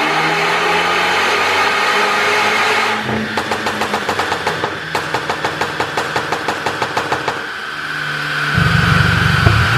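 BMW 428i's N20 turbocharged four-cylinder held at high revs on a chassis dyno for about three seconds. Then the throttle closes and a rapid, even string of exhaust pops and crackles follows on the overrun, about five a second, from the pop-and-crackle tune. Near the end a low rumble and a whine build up.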